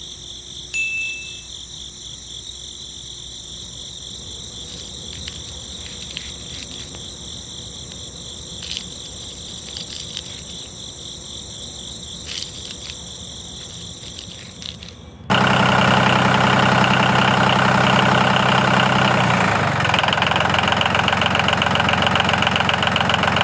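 Small DC motor of a homemade model tractor running with a steady high whine and light clicking. About fifteen seconds in it gives way abruptly to a much louder buzzing rattle.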